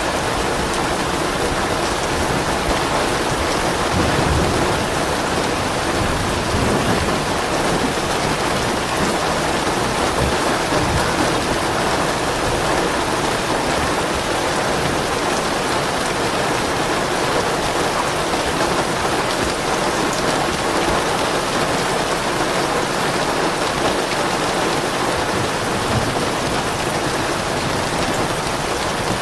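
Steady heavy rain falling on a surface, an even hiss throughout, with soft low rumbles of thunder now and then.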